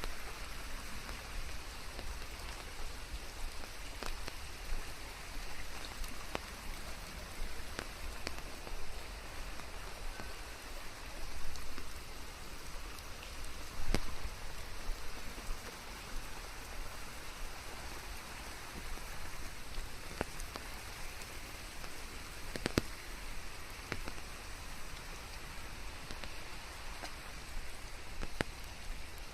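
Steady rainfall with scattered individual drops tapping close by over an even hiss, a few louder drops standing out now and then.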